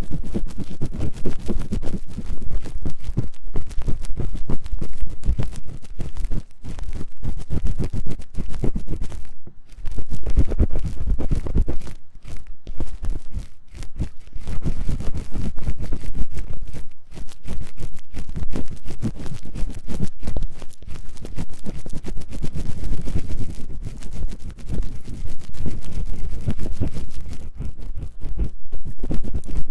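Ear-cleaning tool scratching fast and hard inside the silicone ear of a 3Dio binaural microphone: a dense, loud run of rapid scraping strokes, heavy and rumbling in the low end, with a few brief pauses.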